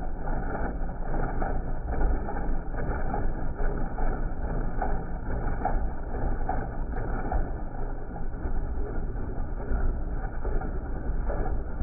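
Kubota B2650 compact tractor's three-cylinder diesel running steadily, driving the PTO-powered Wood Mills WG24 stump grinder.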